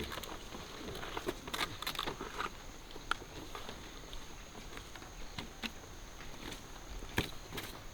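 Banana leaves being handled and spread out: irregular rustling and crackling with light clicks and knocks, over a faint steady high-pitched tone.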